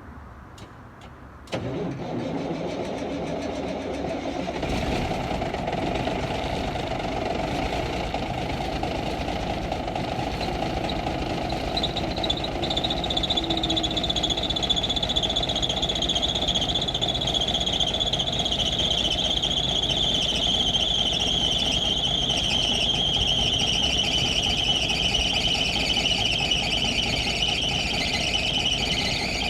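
Cummins big cam straight-six diesel in a Peterbilt 362 cabover cold-started after sitting a month in freezing weather: the starter cranks about a second and a half in and the engine fires a few seconds later, then runs rough. From about twelve seconds in the belts squeal with a high whine that slowly drops in pitch, which the owner cannot trace.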